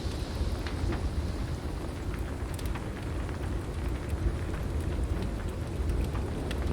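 Heavy rain falling steadily over a continuous low rumble, with scattered sharp crackles of a wood fire every second or so.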